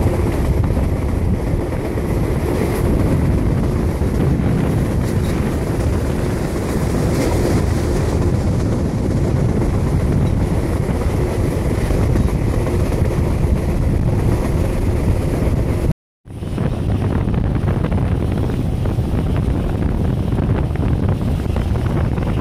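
Steady wind buffeting the microphone over the low rumble of a moving Alaska Railroad passenger car. It cuts out briefly about two-thirds of the way through, then carries on unchanged.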